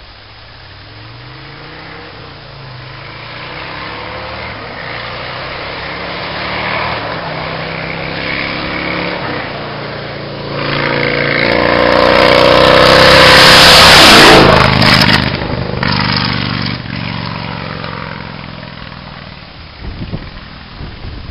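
2005 Yamaha Road Star Warrior's 1700 cc V-twin running with its muffler can removed, so the exhaust is only partly piped. The engine note grows steadily louder, is loudest about two-thirds of the way through, then fades away.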